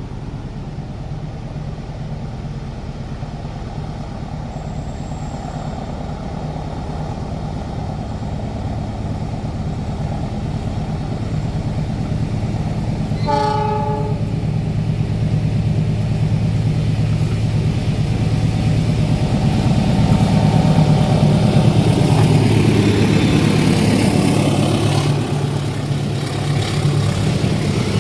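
A train's diesel locomotive approaching and passing, its engine drone growing steadily louder. Its horn sounds once in a short blast about halfway through.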